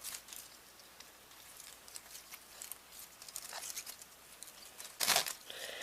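Faint scratchy clicks and rustles of hands handling an opened VHS cassette and winding its tape reel by hand, with one brief louder rustle about five seconds in.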